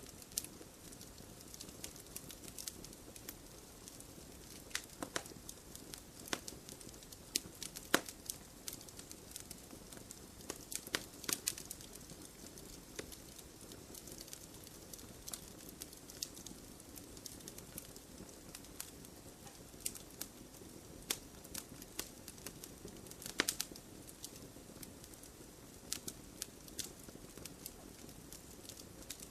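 Wood campfire burning with a steady low rush and irregular sharp crackles and pops, the loudest few about 8, 11 and 23 seconds in.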